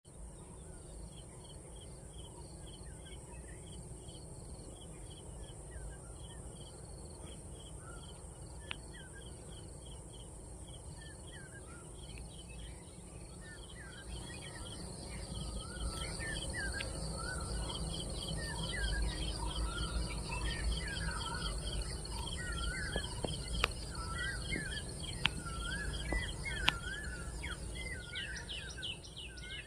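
Outdoor ambience of several birds calling and singing, with repeated chirps and whistled notes that grow busier about halfway through, over a steady high buzz of insects and a low background rumble. A few sharp clicks come near the end.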